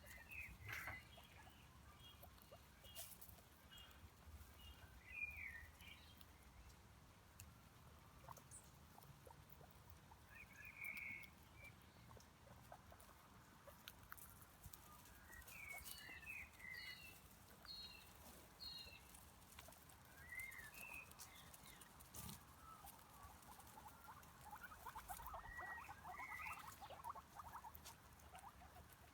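Faint chewing sounds of rabbits nibbling grass, a soft rapid crackle that is thickest a few seconds before the end. Scattered short bird chirps come and go throughout.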